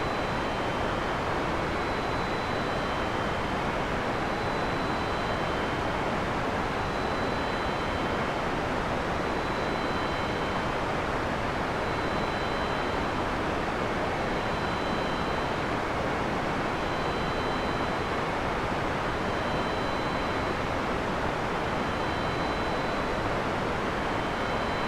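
Steady heavy rain, an even hiss with no thunder. Faint short high tones at two alternating pitches repeat about every second or so over it.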